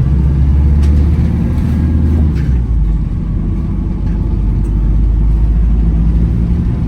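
Low, steady drone of a Wright Gemini 2 hybrid double-decker bus on the move, heard from inside, with its deep hum shifting slightly about two seconds in and a few faint rattles.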